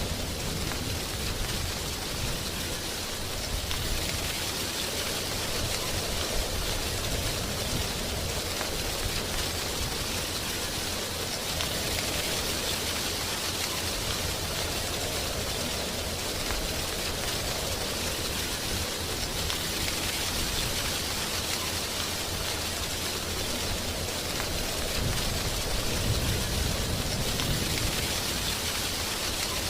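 Wind blowing through dry tree leaves, a steady rustling hiss that swells and eases in slow gusts every several seconds, over a low rumble.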